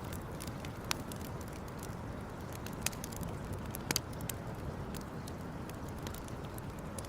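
Wood campfire crackling: scattered sharp pops and snaps, a few louder ones about one, three and four seconds in, over a steady low rush of burning.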